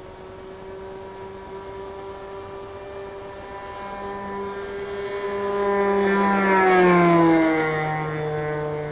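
Radio-controlled Edge 540 model plane's Super Tigre 2300 nitro engine and 16x8 carbon-fibre propeller on a fly-by. It grows louder as the plane closes in, passes about seven seconds in with its pitch falling sharply, then fades away.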